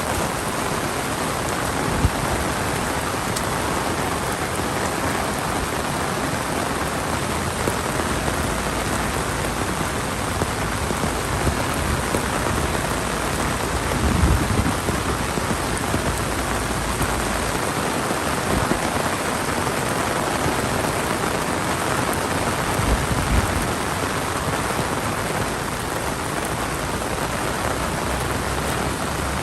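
Heavy monsoon rain falling steadily, hissing on surfaces, with a few brief low thumps or rumbles about two seconds in, near the middle and about two-thirds of the way through.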